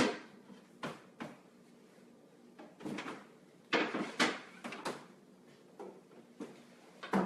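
Refrigerator door being opened and shut while a dish of chicken is put inside, heard as a string of separate knocks and thuds, the loudest at the start, around the middle and near the end.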